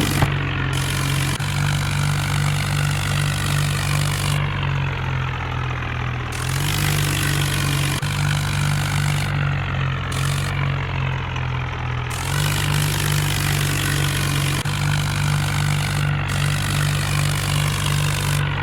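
New Holland tractor's diesel engine running steadily, its pitch shifting slightly a few times as the engine speed changes.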